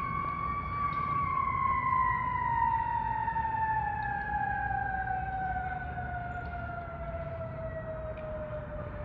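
Fire engine siren holding one pitch for about a second, then sliding slowly and evenly down in pitch.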